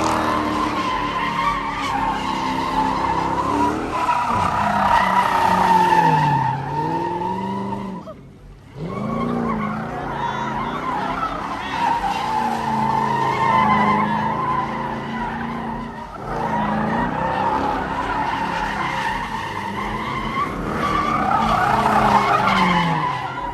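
Car engines revving up and down with tyres squealing, as in burnouts or donuts. There is a brief drop-out about eight seconds in.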